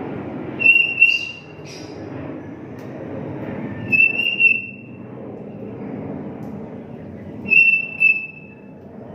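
Sooty-headed bulbul (kutilang) whistling: three short, loud two-note phrases, about three and a half seconds apart, over a steady low rumble.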